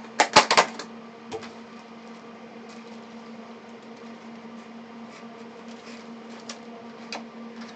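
A quick cluster of sharp clicks and rattles just after the start, a single click a second later and a few faint ticks, as small parts are handled. A steady electrical hum runs underneath.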